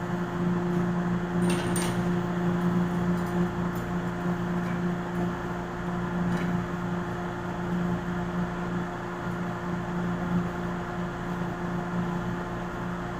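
A steady machine hum with a low, even drone and a higher tone above it, plus a couple of faint light clinks about one and a half seconds in.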